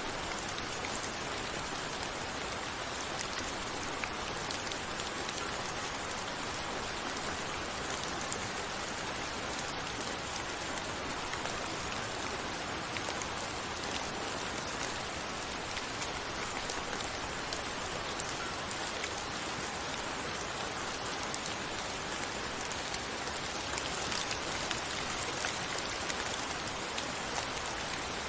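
Steady rain falling, a dense even hiss of drops with many small patters and ticks, and no thunder.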